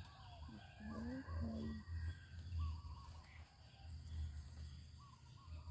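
Faint bird calls: a few short chirps and gliding notes, over a low uneven rumble.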